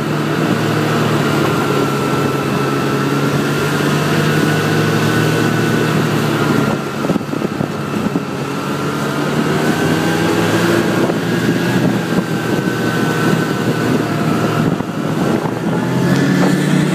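Snowmobile engine running steadily, its pitch wavering a little, with short dips in level about seven seconds in and again near the end.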